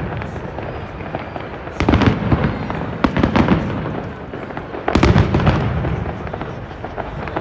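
Fireworks going off: deep booms about two seconds in and again about five seconds in, each fading away, with a quick run of sharp crackles between them.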